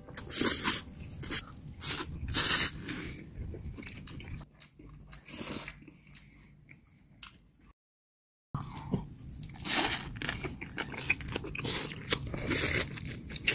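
Close-up eating sounds: crunchy bites and chewing in irregular strokes. The chewing is quieter past the middle, stops dead in a short gap of total silence about two-thirds through, and then resumes.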